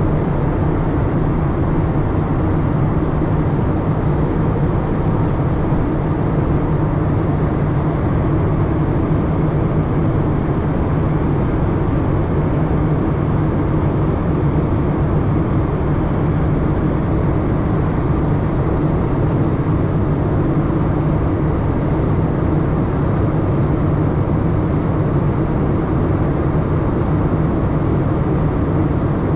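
Steady cabin noise inside a Boeing 787-8 airliner: an even rush of air and engine noise with a constant low hum, unchanging throughout.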